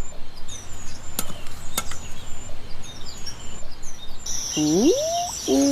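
Small birds chirping over outdoor background noise. Two sharp clicks come in the first two seconds, and a rising pitched sound near the end.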